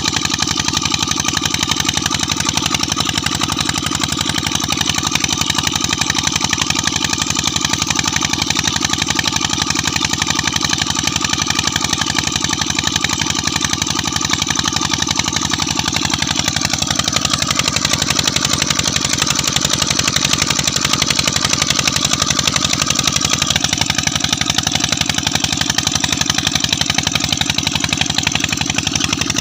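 20 HP Peter SD115 stationary diesel engine running steadily, with a rapid, even train of firing pulses.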